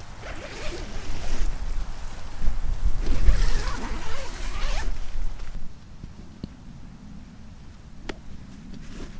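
Camping gear being handled: scratchy rustling and zipping for about five seconds, then quieter, with a single sharp click near the end.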